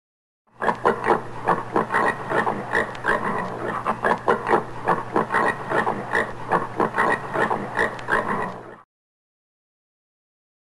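Common warthog grunting in a rapid, continuous series of short pig-like grunts over a steady low hum. It starts about half a second in and cuts off abruptly about two seconds before the end.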